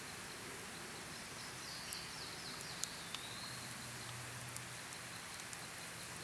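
Campfire crackling, with a few sharp pops in the middle, over a steady outdoor hiss and a faint high insect tone. A bird gives a short run of falling chirps ending in a downward whistle a little before halfway.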